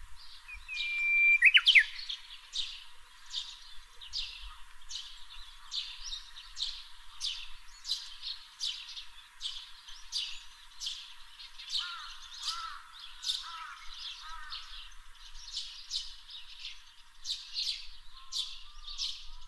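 Japanese bush warbler singing: a long level whistled note that breaks into a quick flourish about a second in, over a steady series of short high bird chirps repeating about one and a half times a second.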